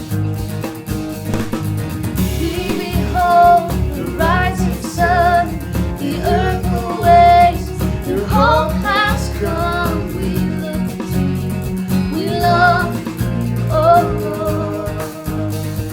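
Worship band playing a slow song with guitar, and a lead voice singing the melody from about two and a half seconds in.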